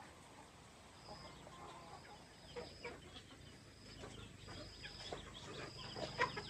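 Chickens clucking faintly, with a thin high-pitched sound coming and going several times.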